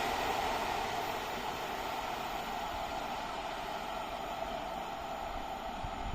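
A passing train dying away, its noise fading over the first second or two into a steady hiss.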